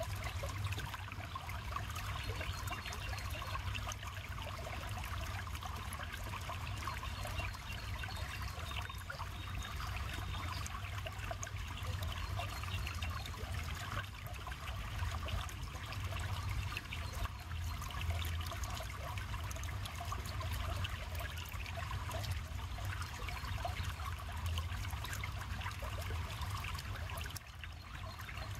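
River water running steadily: a continuous rush with a low rumble underneath.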